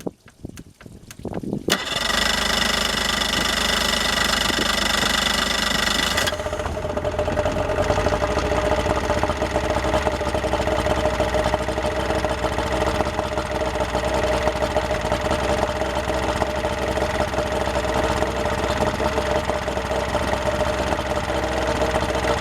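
Yamaha oil-injected two-stroke outboard motor starting cold for the first time after winter storage with fogging oil in it: it fires about two seconds in, runs fast and busy for a few seconds, then at about six seconds settles into a steady idle.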